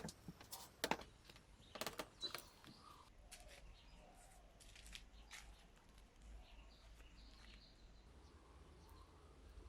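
A few sharp clicks or taps near the start, then a faint low hum with occasional faint bird chirps.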